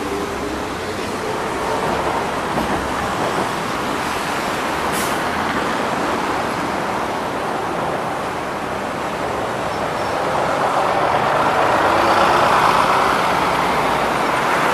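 Scania OmniLink CL94UB city bus under way, heard from inside the passenger cabin: engine and road noise, growing louder from about ten seconds in.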